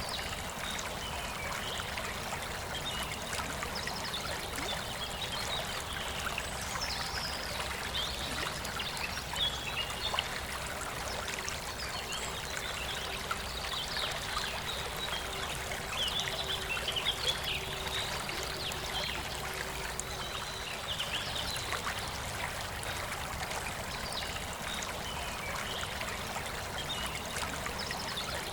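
Forest river flowing steadily with a continuous rushing trickle. Birds sing in short high-pitched phrases through the middle stretch.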